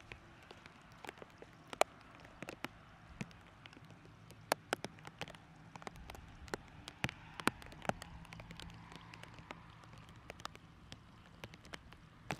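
Light rain: scattered drops ticking irregularly, several a second, over a faint hiss.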